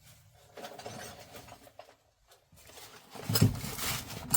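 Metal hand tools clinking and clattering as spanners are rummaged through, with the loudest clatter about three and a half seconds in.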